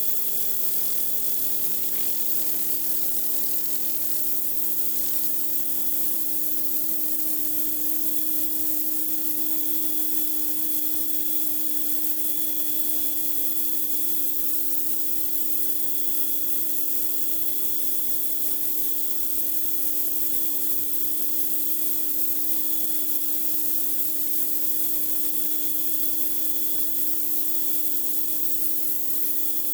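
Pressure washer running steadily: a constant machine hum under the hiss of the high-pressure water spray.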